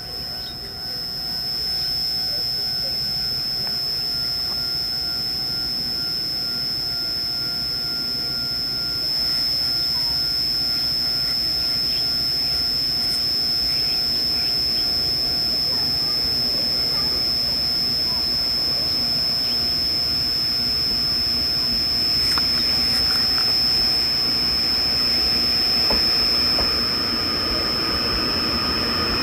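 Train running through a station: a steady rumbling noise with a constant high-pitched whine over it, growing louder about nine seconds in and again a little past twenty seconds.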